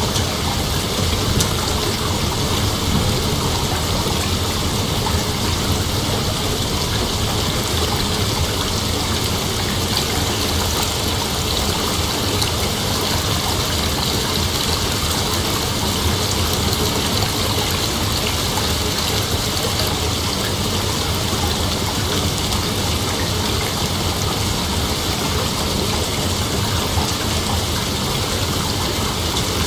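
Dense, steady chorus of night insects: a continuous hiss-like drone with no breaks or changes.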